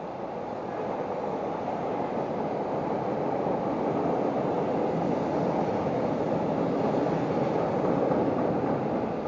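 Chicago 'L' elevated train passing overhead: an even rumbling rush that builds over several seconds, peaks near the end, then starts to fade.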